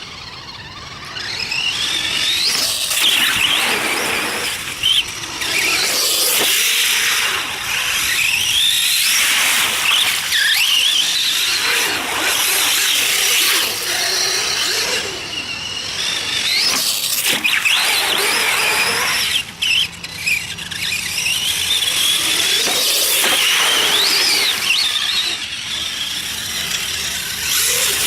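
RC mud truck's motor and gears whining, the high pitch rising and falling again and again as the throttle is worked, over a rushing noise.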